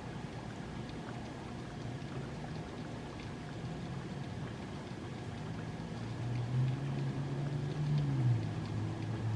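Steady rain, with scattered drops clicking on the microphone. In the second half a passing vehicle's low engine hum swells, its pitch dropping near the end.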